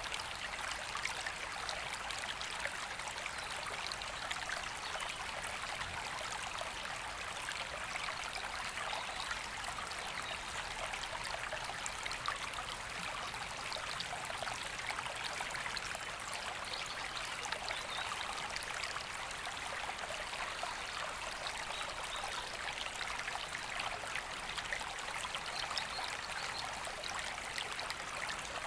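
River water flowing, a steady rushing and babbling with no breaks.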